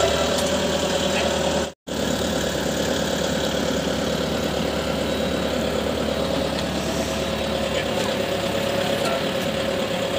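Tractor engine running at a steady idle, cutting out completely for a split second about two seconds in.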